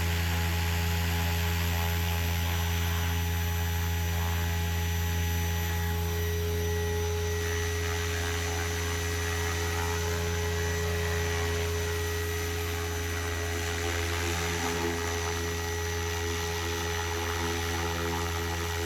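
SAB Goblin Raw 700 electric RC helicopter with a three-blade rotor head, spooled up and running at a steady head speed of about 1,790 rpm: a deep steady rotor drone with a thin electric motor whine above it.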